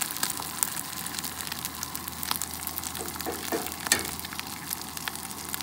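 Corned beef hash and eggs sizzling in a cast-iron skillet on a camp stove: a steady hiss with frequent small pops. About four seconds in comes one sharp tap as an egg is cracked against the pan.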